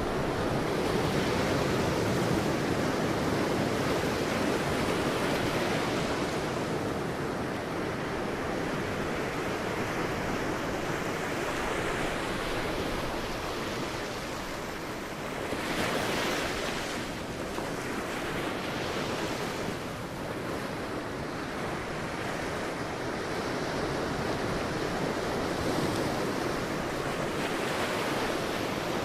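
Sea waves breaking and washing on a beach, a continuous surf that swells and ebbs, with a brighter wash of breaking water about halfway through.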